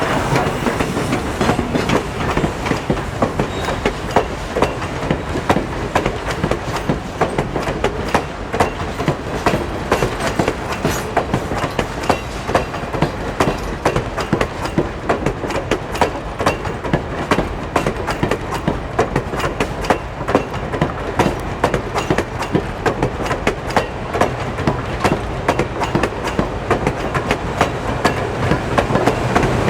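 Train cars rolling past at speed, their wheels clattering over rail joints in a dense, steady run of clicks.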